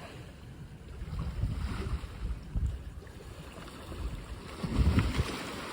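Wind buffeting the microphone outdoors in gusts, two low rumbling swells with the second, near the end, the loudest, over a steady wash of background noise.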